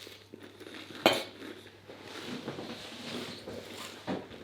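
Cutlery clinking and scraping against a plate while eating, with a sharp clink about a second in and another near the end.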